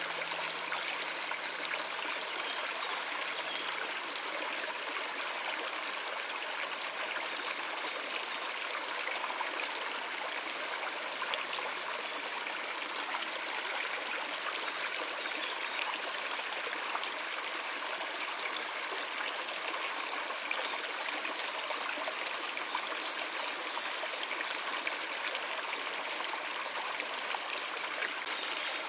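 Stream running over rocks: a steady rushing and trickling of water.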